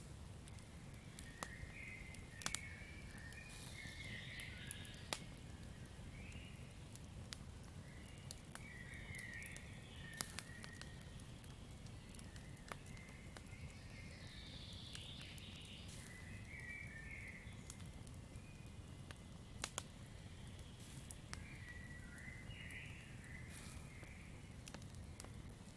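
Campfire crackling, with sharp pops every second or two over a low steady rumble of the burning wood. Wavering chirping calls of night forest creatures come and go throughout.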